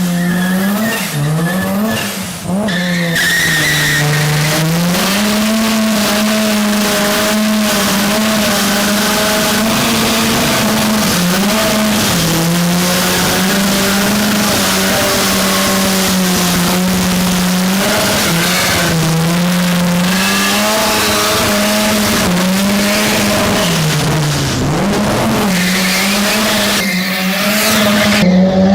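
A rotary-engined car doing a long burnout, its engine held at high revs that waver and briefly drop twice, with the tires squealing continuously.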